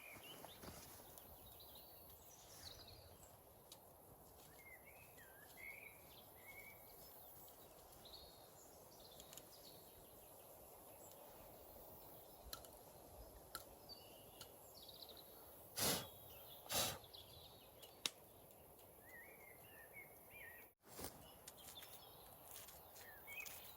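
Quiet woodland background with small birds chirping on and off and scattered faint clicks; two loud sharp knocks come close together about sixteen seconds in.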